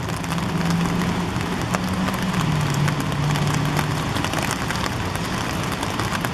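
Steady rain, a hiss with scattered drop ticks. Under it, for the first four seconds, is the low hum of a vehicle engine, which steps down in pitch about halfway through.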